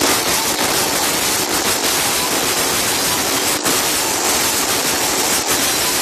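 Fireworks crackling in a dense, continuous rattle of small pops.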